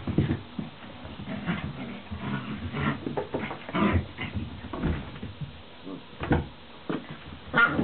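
White Swiss Shepherd puppies play-fighting: short, irregular growls and yips with scuffling, the loudest burst near the end.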